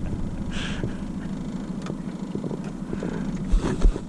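Boat motor running steadily at low speed, a constant hum. A short hiss about half a second in, and two low thumps near the end.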